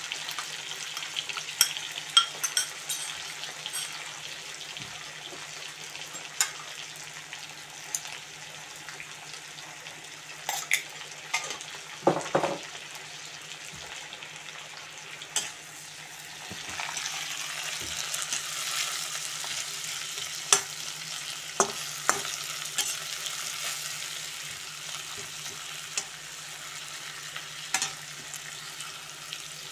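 Sliced onions, tomatoes and green chillies sizzling in oil in a wok, with scattered sharp clicks of a metal spoon against the pan as they are stirred. The sizzle grows louder a little over halfway through.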